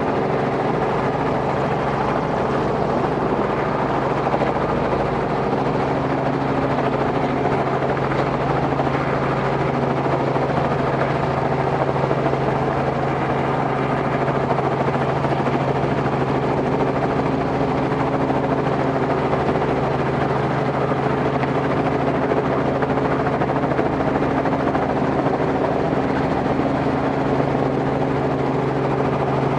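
Robinson R44 helicopter's six-cylinder Lycoming piston engine and rotors running steadily, with an even, unchanging drone.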